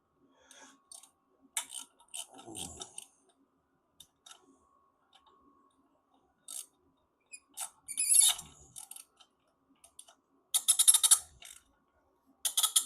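Hand tools working on steel bumper bolts: scattered metallic clicks and clinks, with a short run of quick, evenly spaced clicks about two-thirds of the way through.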